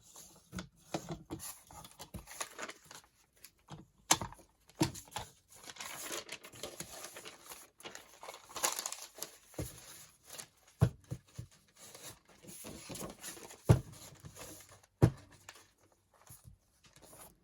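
Sheets of thick, tea-stained craft paper being handled and shuffled into a stack: irregular rustling and crinkling, with several sharp knocks of the paper or hands on the table.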